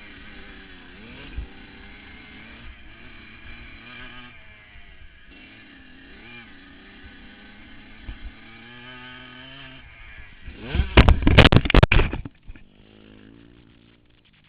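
Motocross dirt bike engines revving up and down as the bikes ride the track, pitch rising and falling through gear changes. About eleven seconds in there is a much louder, rough stretch lasting about a second and a half, then the engine sound drops away.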